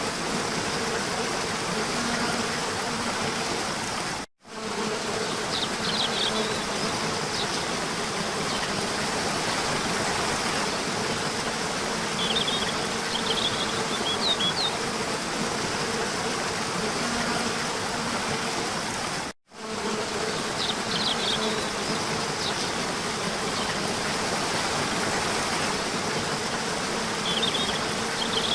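Small waterfall running steadily, with a faint steady hum beneath and short high bird chirps coming back every seven or eight seconds. The sound cuts out for a split second twice, about fifteen seconds apart.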